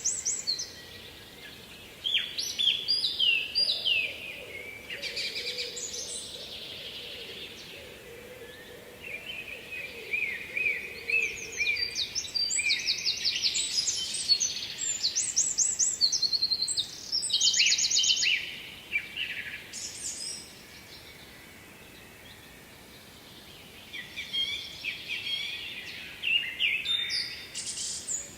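Birds singing, in bursts of quick, high, repeated chirping notes, with quieter gaps between the phrases.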